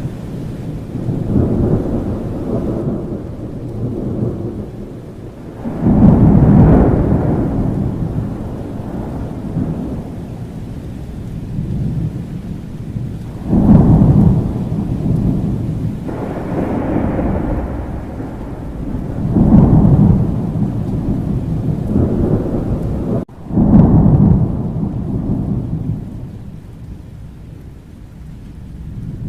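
Thunderstorm: rain falling steadily under rolling thunder. Four deep rumbles of thunder come in suddenly, about six, thirteen, nineteen and twenty-three seconds in, and each fades away over several seconds.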